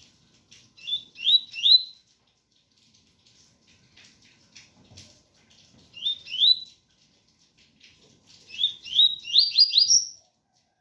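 Double-collared seedeater (coleiro) singing the 'tui-tui' song type: three phrases of quick, rising whistled notes, the last phrase the longest and ending on a higher note, over faint rain patter.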